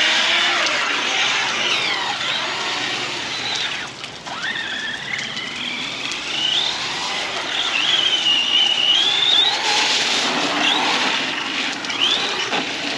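Arrma Big Rock 6S RC monster truck's electric motor whining, its pitch rising and falling again and again as the throttle is worked while the truck slides and spins on wet ground, over a steady hiss of rain and wet tyres. The whine drops away briefly about four seconds in.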